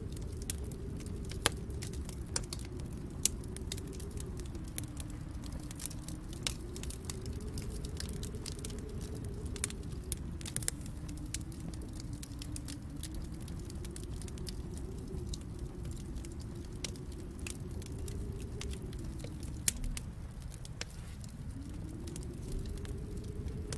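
Wood fire in a fireplace crackling and popping over a steady low rumble, with a few sharper, louder pops scattered through.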